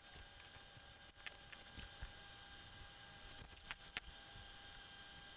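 Faint, scattered light clicks and handling noises over quiet room tone, in two small clusters about a second in and again about three and a half seconds in.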